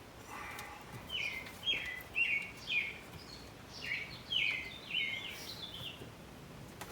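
A small songbird singing: two phrases of short chirps, each sliding down in pitch, repeated about twice a second.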